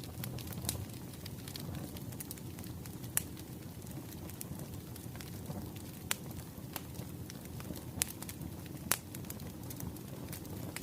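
Wood fire crackling: a steady low rumble of burning logs with sharp pops every second or so, the loudest about three seconds in and again near nine seconds.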